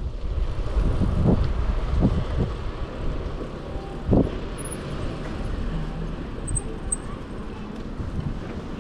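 Wind and road rumble from riding a bicycle on city streets, with car traffic in the background and a few short thumps, the strongest about four seconds in.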